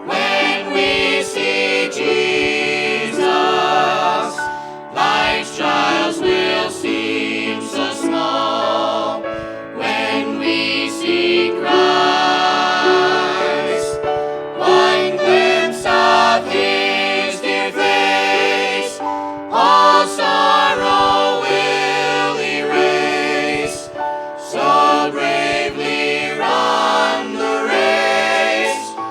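Several voices singing a gospel song together in harmony, in phrases of a few seconds with brief breaths between them.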